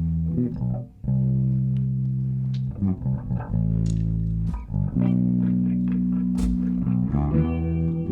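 Live band music opening a song: electric guitar and bass guitar playing sustained notes and chords in phrases with short breaks between them.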